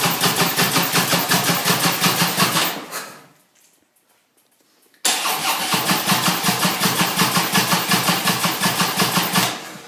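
Harley-Davidson V-twin engine cranking on its electric starter without catching, a fast even chugging in two long attempts: the first stops about three seconds in, the second starts about two seconds later and runs until near the end. The engine turns over but does not fire even though fuel is reaching it, with raw gas coming out.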